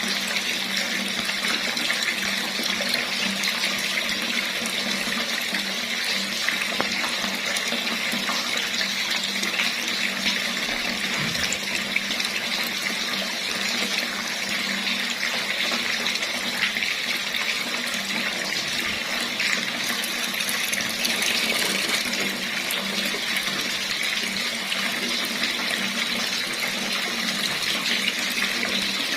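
Water running steadily from a tap, an even unbroken rush.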